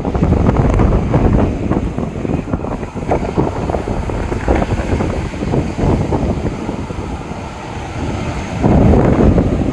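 Wind buffeting the microphone in irregular gusts, with a stronger gust near the end.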